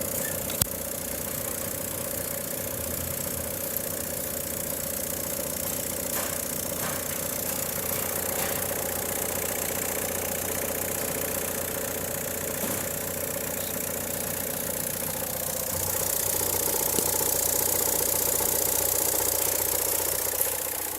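Volkswagen 1.9 TDI four-cylinder turbodiesel (AUY) running at idle with a steady diesel clatter. It gets somewhat louder for a few seconds near the end, then settles back.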